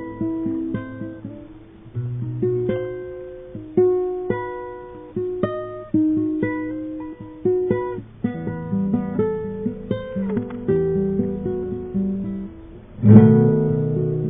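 Acoustic guitar being played, plucked note by note in a slow, meandering line, with a louder strummed chord near the end.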